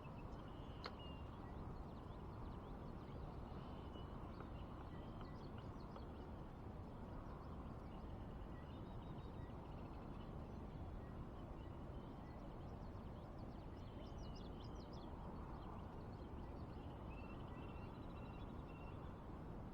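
Small birds chirping and trilling on and off over a steady low rush of outdoor background noise, with one sharp click about a second in.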